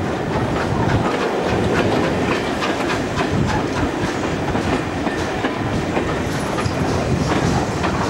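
Passenger train coaches rolling along a station platform, the wheels running with a steady rumble and clicking over the rail joints, heard from an open carriage window.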